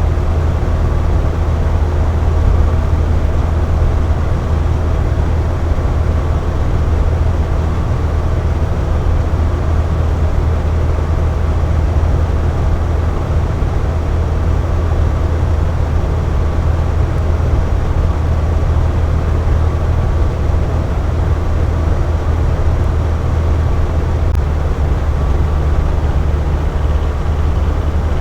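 Box fan running steadily: a constant low rushing hum of moving air with faint steady motor tones.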